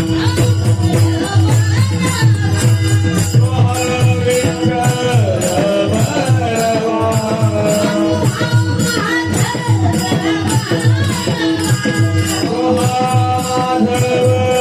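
Marathi Varkari kirtan music: a singer's voice carrying a melody over steady held tones, with an even, continuous beat of small hand cymbals and a drum.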